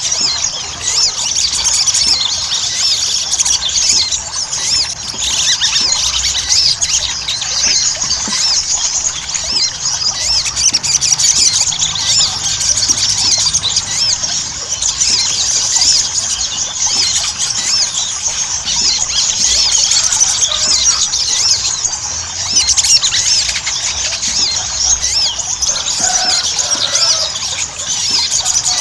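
Crimson sunbird (sogon) singing nonstop: a dense, rapid stream of thin, high-pitched squeaky chirps and twitters in the fast, chattering 'ngobra' style used as a lure to get caged birds singing.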